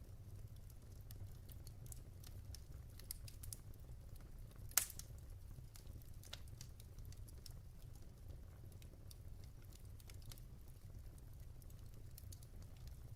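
Log fire crackling in a fireplace: a steady scatter of small sharp crackles over a low rumble, with one loud pop a little under five seconds in.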